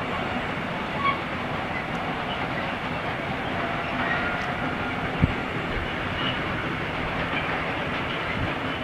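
Freight train of open coal wagons rolling past, a steady rumble of wheels on rail with two sharp knocks, about a second in and about five seconds in.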